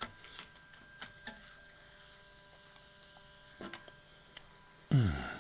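Scattered small clicks and knocks of a drone battery being handled, over a steady electrical hum with faint high tones. Near the end comes a loud, short, low vocal sound that falls in pitch.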